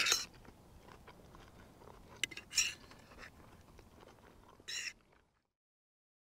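Quiet eating sounds: a sharp click at the start, then a few brief, faint crunches of someone chewing food, the last about four and a half seconds in, after which the sound cuts to dead silence.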